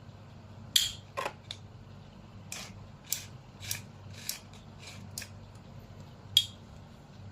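A series of about a dozen short, sharp clicks and scrapes at uneven intervals, over a faint low hum.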